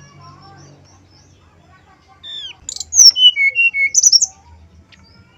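Male brown-chested jungle flycatcher singing one loud, quick phrase of clear whistled notes. The phrase opens with a falling note about two seconds in and ends in a flourish of high notes about four seconds in. Fainter bird calls sound in the background.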